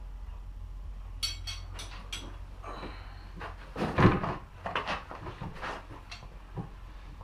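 Hard objects being handled: four quick sharp clicks, then a louder knock about four seconds in and a few lighter clunks, over a steady low hum.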